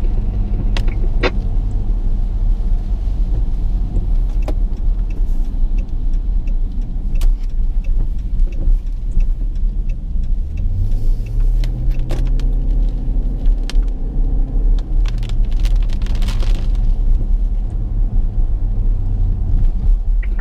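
Car cabin noise while driving: a steady low engine and road rumble, the engine note rising about halfway through as it speeds up. Scattered sharp clicks and a brief hiss near the end are heard over it.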